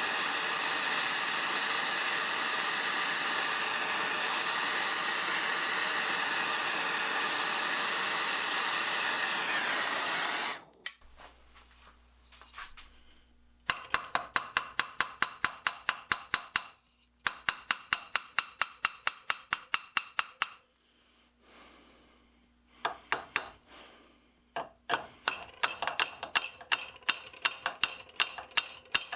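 A gas torch hisses steadily while heating a rusted-in steel through bolt, then cuts off suddenly about ten seconds in. Light, rapid hammer taps on the metal follow, about four a second, in three runs.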